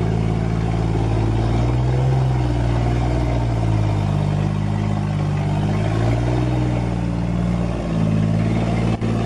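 Heavy log truck's engine pulling under load, its revs rising and falling as the truck moves off. The sound briefly drops out near the end.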